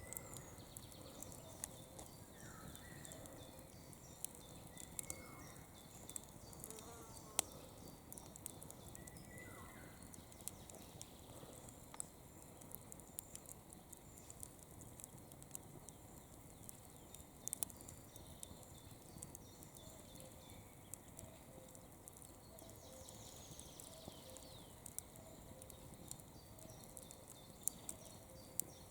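Campfire burning quietly, its wood crackling with sharp irregular pops scattered throughout.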